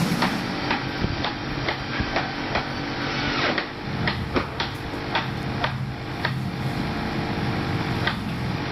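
Plastic toy vehicles clicking and knocking as they are handled and loaded, a dozen or so irregular sharp clicks over a steady low hum.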